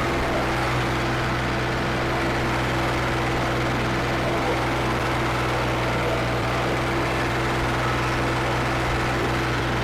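Farmtrac 55 tractor's diesel engine, upgraded with Farmtrac 60 T20 pistons and a modified pump, running steadily at an even speed with a constant pitch.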